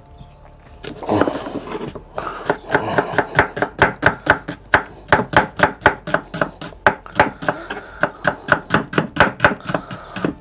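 Kitchen knife chopping onion fast on a cutting board: a quick, even run of knife strokes, about four to five a second, starting about two seconds in.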